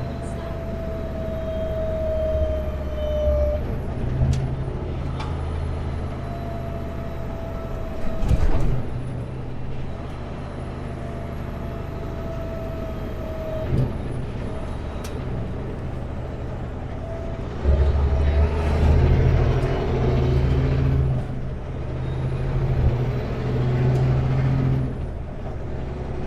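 Kenworth W900L semi truck's diesel engine running while driving, heard from inside the cab as a steady low drone. It grows louder and fuller for several seconds past the middle.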